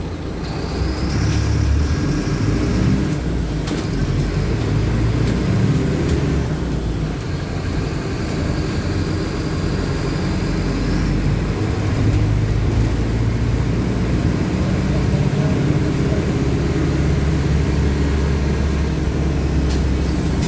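Mercedes-Benz OF-1519 BlueTec 5 bus's diesel engine pulling away and accelerating, its pitch changing as it works through the gears. A high whine rises about a second in and again from about eight seconds, cutting off suddenly near eleven seconds.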